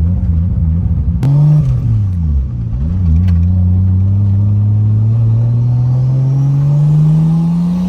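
Big-turbo Toyota MK4 Supra's inline-six engine pulling, heard from inside the car. There is a sharp click about a second in, the revs rise and drop briefly, then climb steadily as the car accelerates.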